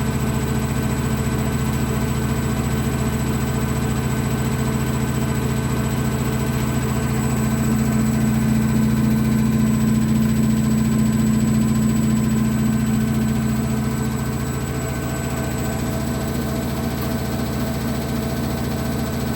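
1994 Ocean 900 washing machine spinning an unbalanced load: a steady motor hum and drum drone that grows a little louder about eight seconds in and eases back a few seconds later.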